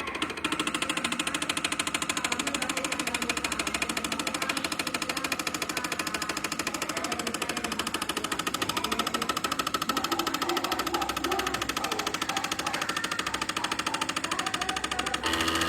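Stepper motors of a homemade Arduino GRBL CNC machine running, with a rapid, even buzzing chatter that changes tone near the end as the moves change.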